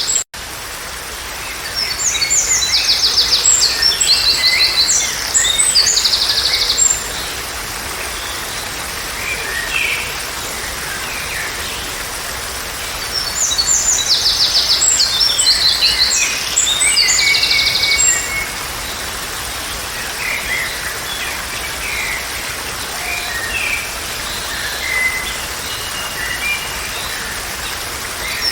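Songbirds singing: two long bouts of rapid high trills and chirps about eleven seconds apart, with scattered fainter calls between, over a steady background hiss.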